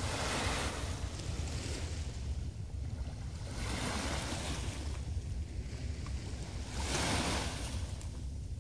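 Small waves breaking and washing up the beach, three surges of rushing hiss a few seconds apart, over a steady low rumble of wind on the microphone.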